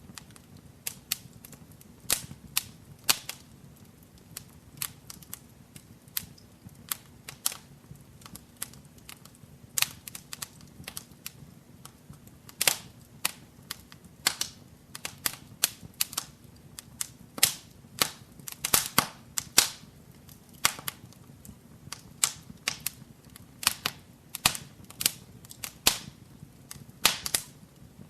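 Wood fire crackling in a fireplace: irregular sharp pops and snaps, some in quick clusters, over a faint low rumble of the flames.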